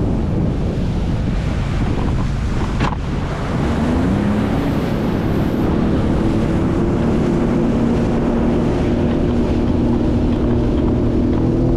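Jet ski engine running at speed over water, with wind buffeting the microphone. The engine note dips about three seconds in, then climbs back and holds steady.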